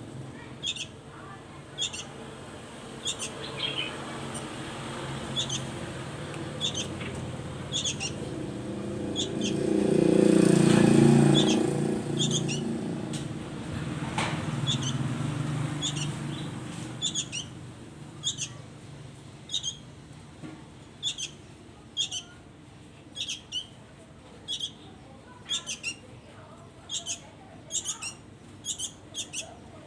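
A songbird calling with short, high chirps repeated about once a second. A low rumble swells and fades midway.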